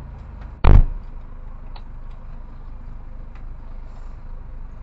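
A single heavy thud, most likely a car door being shut, about a second in. Under it the Citroën C2 rally car's engine idles with a steady low rumble.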